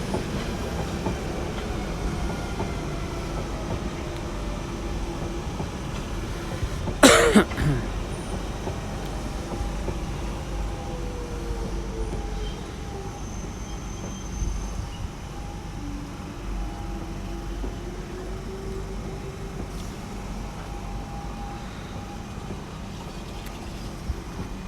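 Electric passenger train moving through the station: a steady low rumble with faint motor whines that slide slowly in pitch. About seven seconds in comes one brief loud sound that sweeps quickly downward.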